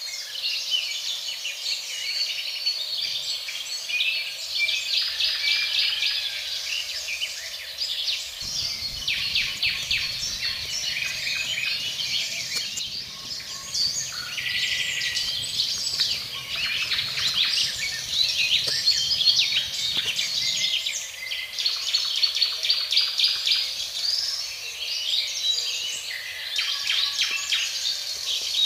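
Several wild birds chirping and singing, with dense runs of quick, high chirps.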